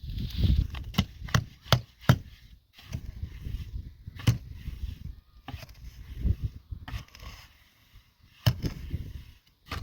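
A series of sharp, irregular knocks or chopping blows: four in quick succession about a second in, one near the middle and one near the end, with low rustling and handling noise between them.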